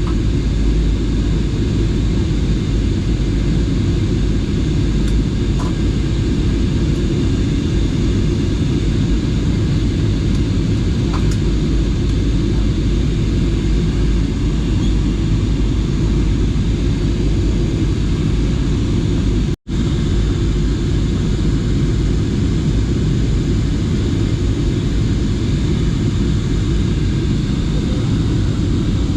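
Steady drone of an airliner's engines and airflow heard inside the passenger cabin, a deep even rumble. It cuts out for a split second about two-thirds of the way through.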